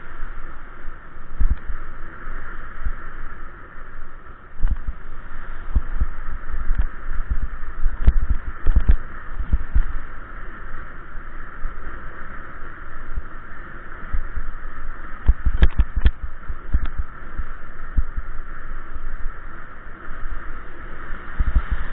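Wind buffeting the microphone in irregular low gusts while riding, over a steady hiss of road noise.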